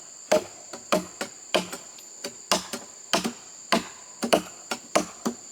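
Quick, uneven chopping blows on wood, about three a second, over a steady high-pitched drone of insects.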